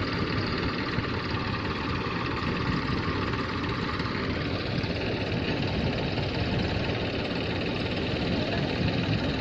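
A vehicle engine running steadily, its tone shifting slightly about four and a half seconds in.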